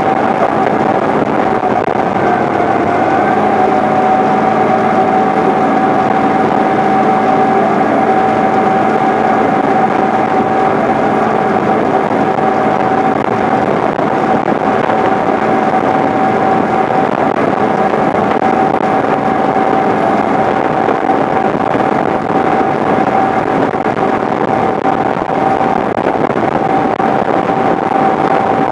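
John Deere 8970 tractor's six-cylinder Cummins diesel running steadily under load while pulling a tillage implement: an even drone with a constant whine over it.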